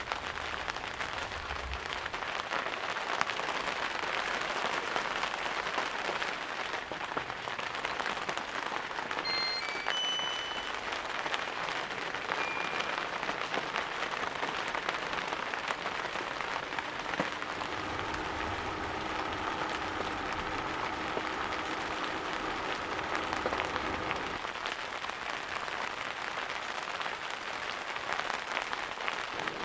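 Steady rain falling, a dense even hiss throughout. A steady hum joins for several seconds past the middle, and a few brief high chirps sound about a third of the way in.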